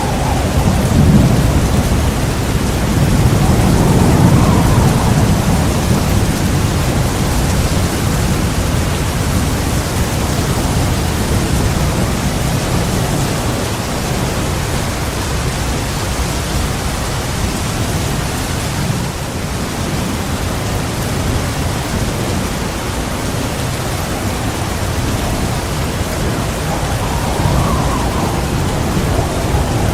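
Heavy rain falling steadily, with low rolling thunder that swells in the first few seconds and again near the end.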